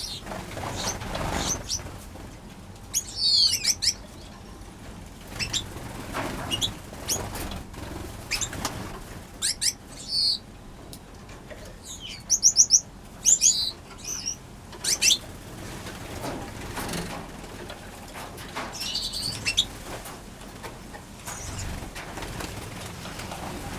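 Aviary finches chirping and calling in short high notes and trills, with wings fluttering as birds fly about.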